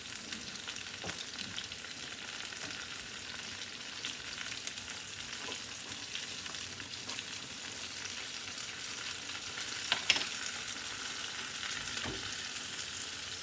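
Pan of food on the stove sizzling steadily, with a brief clatter about ten seconds in.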